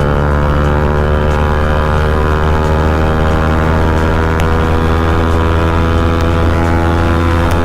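Bajaj Pulsar NS200's single-cylinder engine running at steady revs through an aftermarket full-system Akrapovic exhaust while riding, a loud, even exhaust note with no change in pitch.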